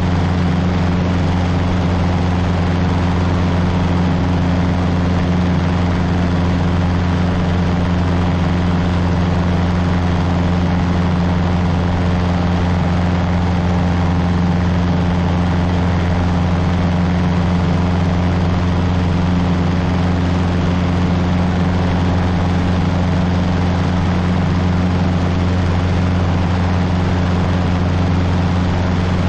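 Cessna 150's four-cylinder Continental O-200 engine and propeller droning steadily in cruise flight, with no change in pitch or level.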